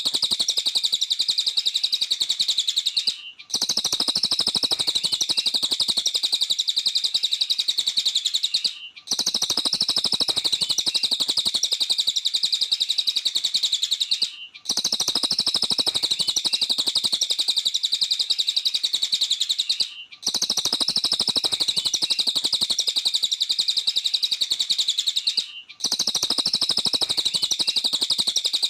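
Cililin songbird singing a fast, continuous, high chirping song. The song comes in phrases of about five and a half seconds, broken by short pauses at even intervals.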